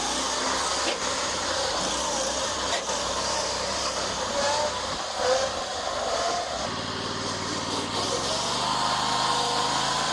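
Predator 670 V-twin engine of a homemade truck running under throttle as it drives, its pitch wavering up and down.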